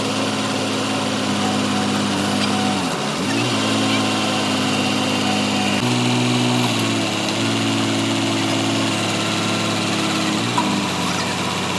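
An engine running steadily. Its speed dips briefly and recovers about three seconds in, steps up about six seconds in, and dips again near the end.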